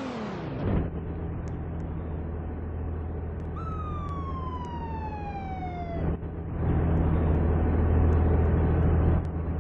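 Fire truck's siren: a wail falls away in the first second, and a second siren tone slides steadily down in pitch for about two and a half seconds midway. The truck's diesel engine hums steadily underneath and gets louder, with a rushing noise, over the last three seconds.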